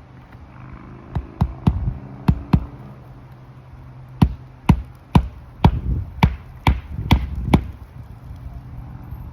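A hammer striking roofing nails into an asphalt shingle: a run of five sharp blows, a pause, then eight more at about two a second, over a steady low hum.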